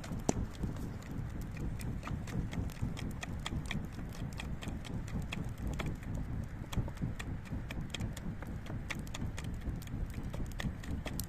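A small twig-and-straw fire fanned hard with a piece of cardboard: the cardboard flaps in a quick, steady rhythm and pushes gusts of air at the flames, while the burning twigs crackle and pop.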